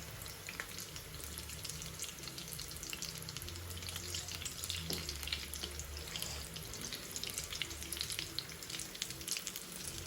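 Aalu chop, battered potato patties, sizzling as they fry slowly in hot oil, with a dense, steady crackle of small pops.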